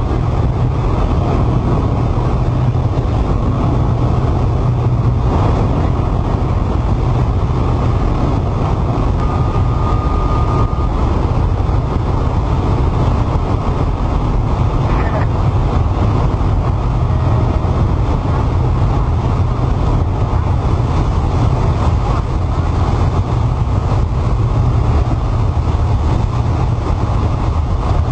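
Steady drone of a light aircraft's engine and propeller heard inside the cockpit, with a brief tone about nine seconds in.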